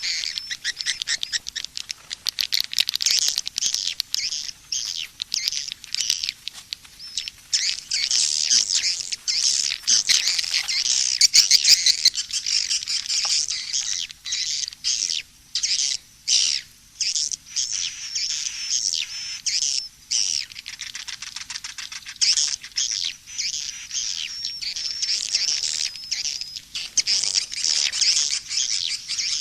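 Edible-nest swiftlet calls from a swiftlet-farming call (lure) recording: many birds twittering and chattering continuously in high, rapid trills, with brief stutter-like gaps.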